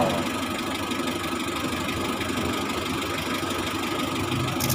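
Car engine idling steadily in the background, an even hum with no distinct knocks or changes.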